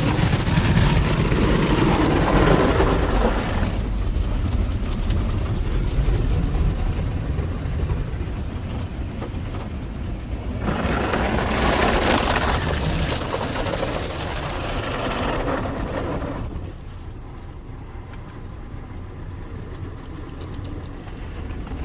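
Ryko Softgloss XS 2 soft-touch automatic car wash working over the car, heard from inside it: a broad rush of water spray and foam brushes on the body. It comes in loud surges as the machine passes, at the start and again about halfway through, then quietens near the end.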